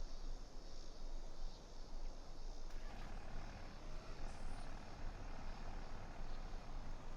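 Truck engines running, a steady low rumble; about three seconds in, a louder hiss comes up over it.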